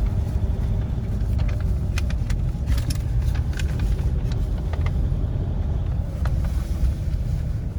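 Steady low rumble of a car's engine and tyres heard from inside the moving car, with scattered small clicks and ticks.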